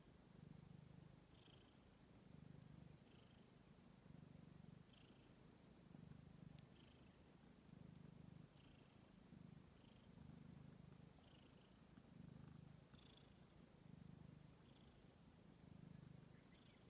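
Faint cat purring, the low rumble swelling and easing about once a second with each breath in and out.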